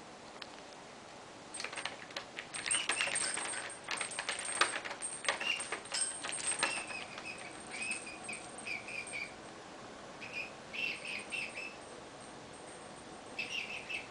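Pet cockatiel clicking and rattling about at her toy for several seconds, then giving short chirps in quick runs of three or four, a few seconds apart.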